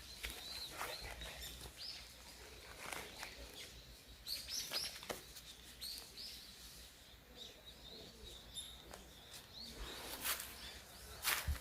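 Small songbirds chirping, many short high calls one after another. A few short sharp noises break in, the loudest near the end.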